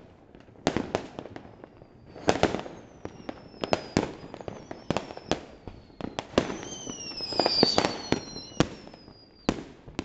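Fireworks and firecrackers bursting in quick, irregular succession, with high whistles falling in pitch from whistling fireworks, once a few seconds in and again through the second half.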